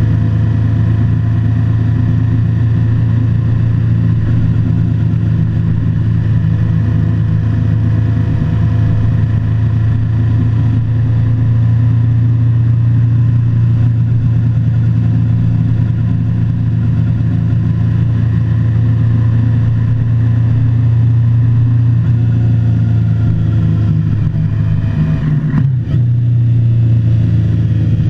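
Motorcycle engine running steadily at cruising speed. Near the end its note dips briefly, then picks up again.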